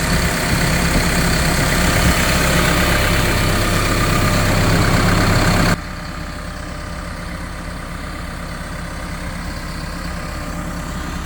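Diesel engine of a Cat CS54B compactor running steadily at idle, with no blow-by. About halfway through, the sound drops suddenly to a quieter, duller engine hum.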